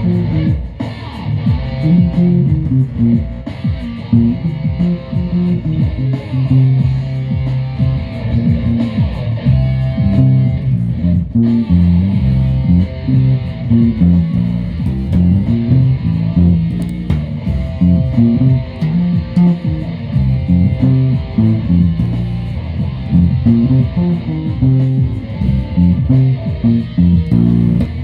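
Guitar music: a run of plucked guitar notes over a low bass line, played without a break.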